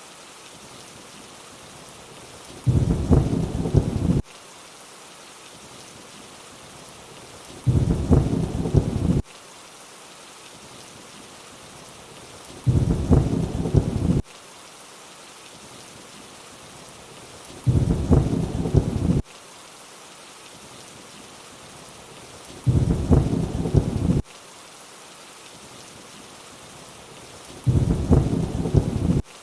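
Steady rainfall, with a low thunder rumble coming back at an even five-second spacing, six times. Each rumble lasts about a second and a half and starts and stops abruptly.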